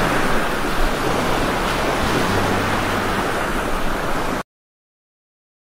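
Heavy rain pouring down, a dense, steady hiss. It cuts off abruptly about four and a half seconds in.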